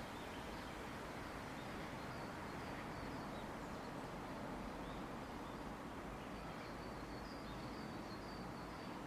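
Steady rushing of a river, with faint short high-pitched calls repeated in a run near the end.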